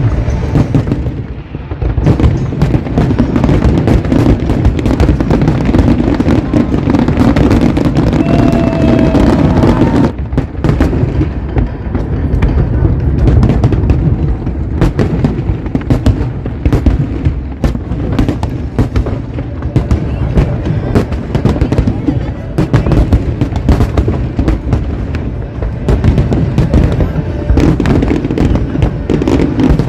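A fireworks display bursting in rapid, continuous bangs and booms, with music playing underneath.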